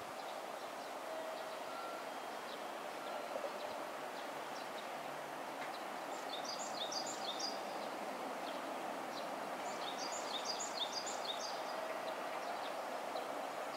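Freight train double-headed by two JR Freight EF64 electric locomotives approaching from a distance: a faint, steady rumble that slowly grows louder. A bird sings two short runs of chirps over it, once midway and again later.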